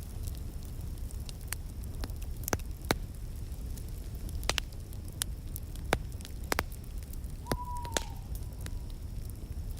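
Wood fire in a fireplace crackling: scattered sharp pops over a steady low rumble of flames, with a short whistle-like tone, falling slightly, about three quarters of the way through.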